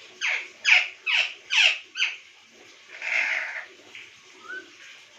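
Pet parrot calling: five quick squawks, each sweeping sharply down in pitch, then a longer, rougher call about three seconds in and a short rising whistle near the end.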